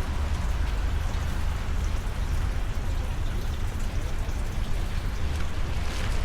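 Steady rain falling, with scattered drops ticking close by, over a continuous low rumble.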